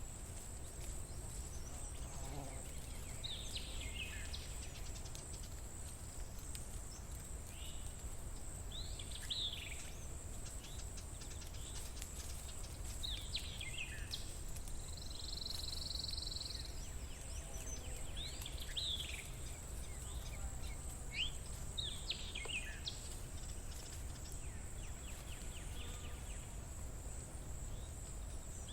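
Outdoor nature ambience: a bird giving short, falling chirps every few seconds over a steady, high-pitched insect drone, with a low background rumble.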